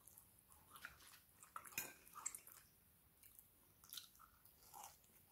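Faint close-up chewing and wet mouth clicks of a person eating soft fries and barbecue chicken wings, with a few sharper smacks scattered through.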